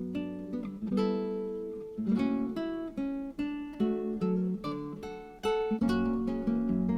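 Background music: acoustic guitar playing a gentle melody of plucked notes and strums.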